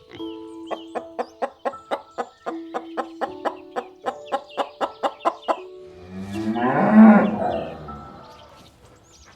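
A cow mooing once, a long drawn-out call that swells to its loudest about seven seconds in and then fades. Before it comes a fast run of short, sharp sounds, about four a second, over background music.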